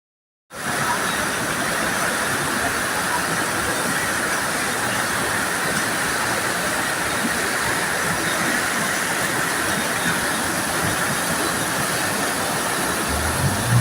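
Steady rushing of floodwater, an even loud noise that starts abruptly about half a second in. A low engine hum comes in near the end.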